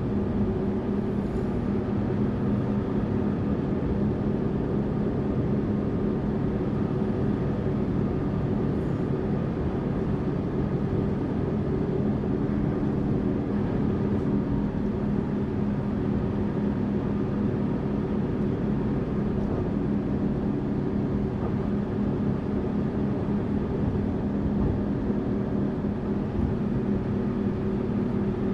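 Tourist bus engine and road noise heard from inside the bus while cruising: a steady, even drone with a constant hum.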